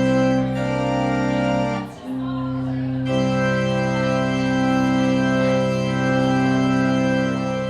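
Organ playing the postlude after the service's dismissal: full held chords, with a brief break about two seconds in before the next chord is sustained.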